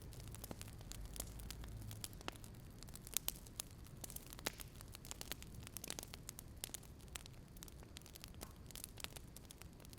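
Wood fire crackling: irregular snaps and pops over a soft low rumble.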